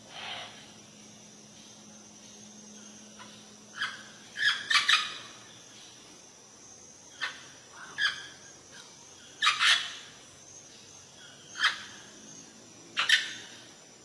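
Tropical birds calling: short, sharp calls every one to two seconds, some in quick pairs, over a steady high-pitched tone.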